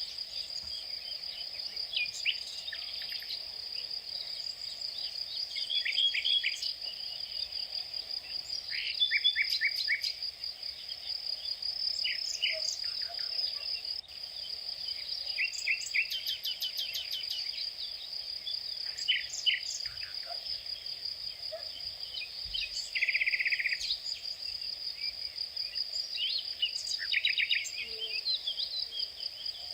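Outdoor natural ambience: a steady, high-pitched insect trill, like crickets or cicadas, with songbirds calling and chirping over it, including a quick run of notes about halfway through.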